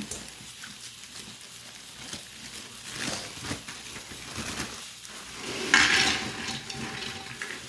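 Light clinks and scrapes of a spoon in a cooking pot, with a louder hissing burst about six seconds in.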